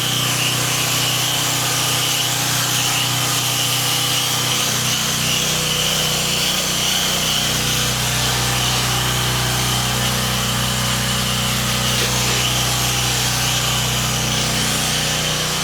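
Pressure washer running steadily, its engine droning under the continuous hiss of the high-pressure water spray.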